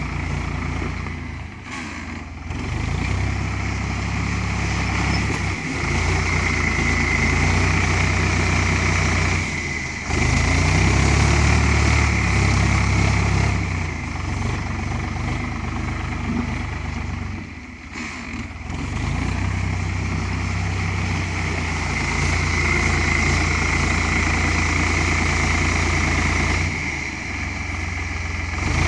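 Ford 3600 tractor's three-cylinder engine running as it works the clay. The note rises and falls with load, and it eases off briefly about four times.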